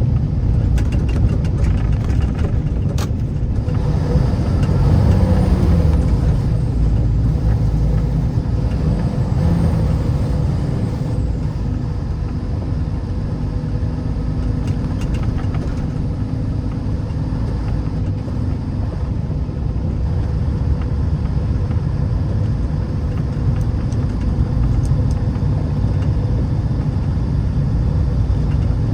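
Steady rumble of a vehicle driving on a snowy road, engine and tyre noise together, swelling a little about five seconds in.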